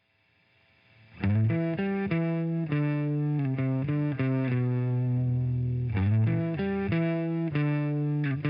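Music: a distorted electric guitar playing a melodic line. It swells in over the first second, then plays a run of notes with one longer held note in the middle.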